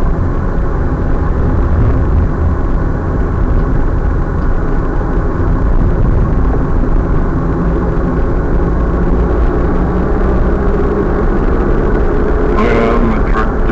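Car engine and road noise from a moving car, a steady low rumble. Near the end there is a brief higher-pitched sound.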